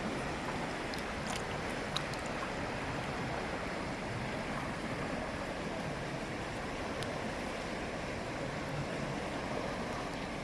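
Steady rush of flowing river water, with a small click about two seconds in.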